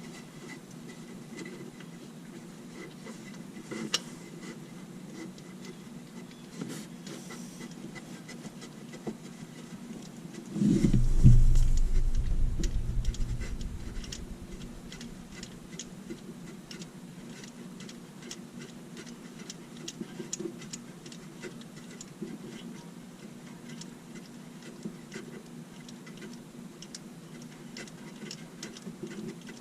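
A steady low running hum with fast, light ticking throughout. About eleven seconds in it jumps to a much louder, deeper sound, which fades back down over about three seconds.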